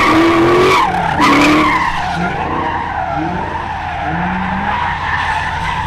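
Car tyres squealing on pavement in a long, wavering screech that breaks off briefly about a second in and then carries on, with engine rumble underneath.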